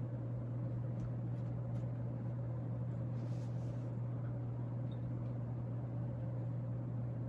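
Fasco Charleston third-generation 42-inch ceiling fan running steadily on high speed: a constant low motor hum under a wash of moving air.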